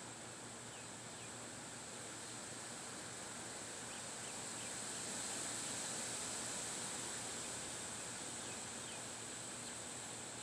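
Outdoor wind ambience: an even rustling hiss over a steady high-pitched drone. It swells for a few seconds in the middle, with a few faint short chirps.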